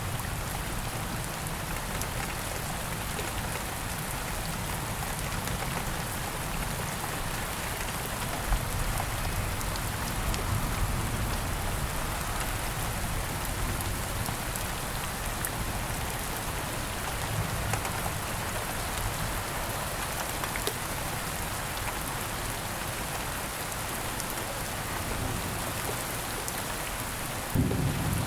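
Steady rain falling, with scattered single drops standing out. Just before the end, a low rumble of thunder starts abruptly.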